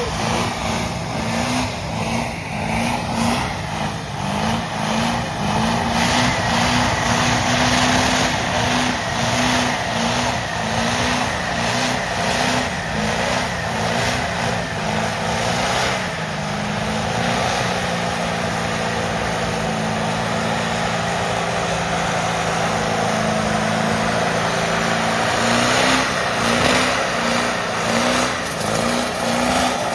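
A vehicle engine with a rhythmic, loping idle. About halfway through it is held at a steady higher speed for several seconds, then drops back to the loping idle near the end.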